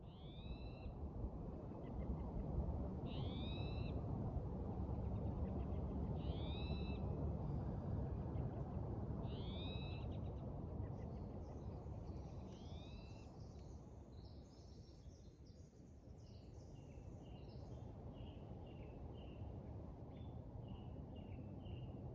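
A bird giving a short, curved whistled call five times, about every three seconds, over a steady low rushing noise. About halfway through, the calls stop and small birds take over with high twittering and short chips.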